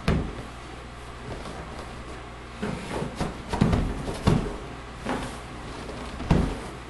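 Cardboard box and packaging being handled and pulled apart: a string of short knocks, scrapes and rustles as a boxed RC truck is worked out of tight packing, over a low steady hum.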